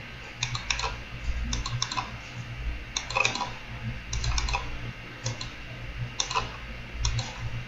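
Computer keyboard and mouse clicks while drafting in AutoCAD: irregular taps, often in quick clusters of two or three, over a faint low hum.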